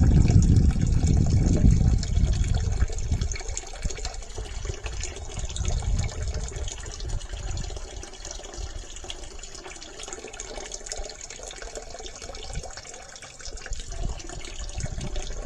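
Flush water running out of a sewer pipe into a bucket. It pours heavily at first, then eases after about three seconds into a lighter, uneven trickle.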